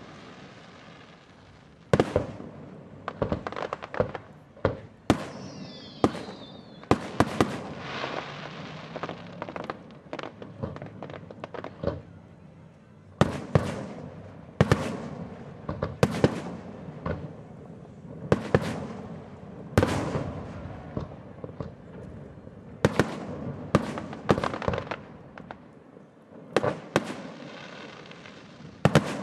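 Aerial fireworks shells bursting over a harbour in a rapid series of sharp bangs, each followed by an echoing rumble off the water. A short falling whistle sounds about five seconds in, and a dense run of small pops follows around eight seconds in.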